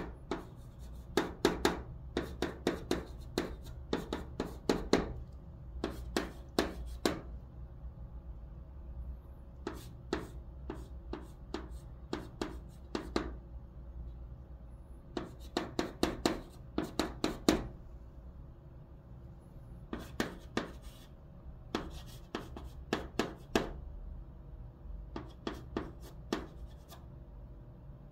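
Chalk writing Chinese characters on a blackboard: quick clusters of sharp taps and short scratches, one cluster per character, with brief pauses between them.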